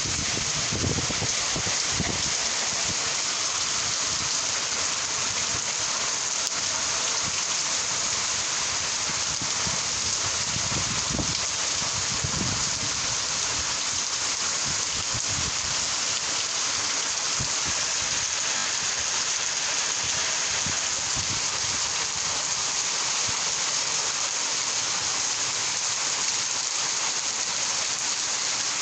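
Rain falling steadily, a dense, even hiss without pause, with a few low rumbles in the first half.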